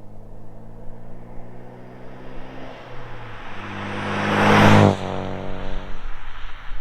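Turbocharged 1.6 L four-cylinder of a Hyundai Elantra Sport with a catless downpipe and straight-through exhaust. It drops in pitch about three seconds in, then builds under throttle to a loud rush with a rising turbo whistle. The sound cuts off abruptly just before five seconds as the throttle closes, then settles back to a steady engine note.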